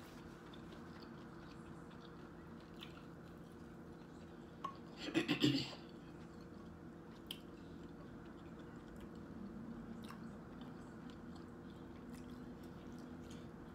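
Quiet mouth sounds of chewing seafood, with faint scattered clicks, over a steady low hum. About five seconds in there is a short louder noise, such as a spoon knocking in a glass sauce bowl.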